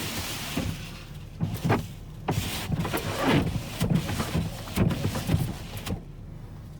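About a dozen irregular scraping and brushing strokes as snow is cleared, stopping about six seconds in. A vehicle's engine idles steadily underneath.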